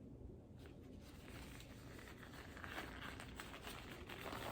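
Hands being washed: a soft, rough swishing that builds up from about a second in and is loudest near the end.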